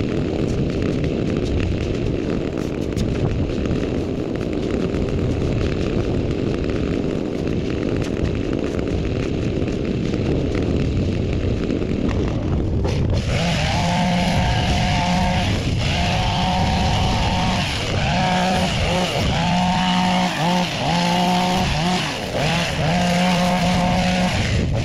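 Small gas engine of a power garden tool: a rough rumbling noise at first, then about halfway in the engine runs steadily, its pitch dipping and rising as it is throttled about once a second.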